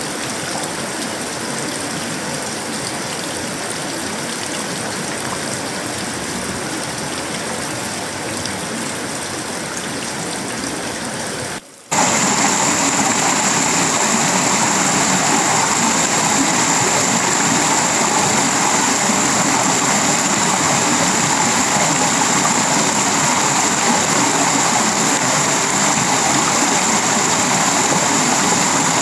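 Tropical rain falling steadily on a sheet-metal roof, wood and leaves, an even hiss of water. About twelve seconds in, the sound cuts out for a moment and comes back louder, with a steady high-pitched whine over the rain.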